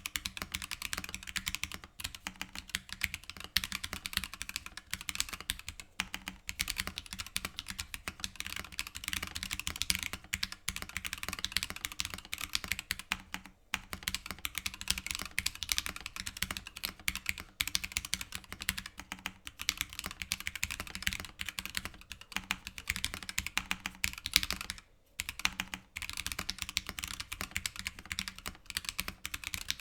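Continuous typing on a mechanical keyboard fitted with stock, unlubed Gateron CJ linear switches (ink top housing, POM bottom housing and stem), giving a clacky keystroke sound. The board is a Boop65 with a polycarbonate case and no plate or case foam. There are a couple of brief pauses in the typing.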